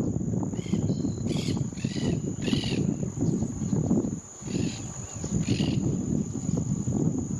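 Short bird calls, about six of them, most in the first three seconds and two more a little later, over a steady high-pitched insect trill and a loud low rumbling noise.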